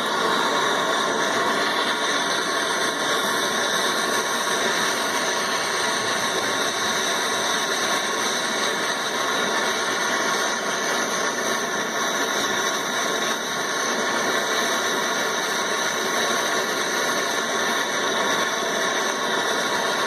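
Gas brazing torch flame burning with a steady hiss while copper AC refrigerant pipe is heated for brazing.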